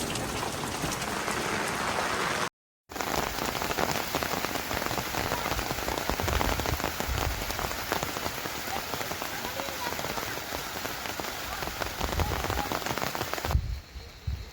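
Steady rain falling, an even hiss filled with many small drop impacts. It cuts out completely for a moment about two and a half seconds in, and near the end gives way to a quieter low rumble.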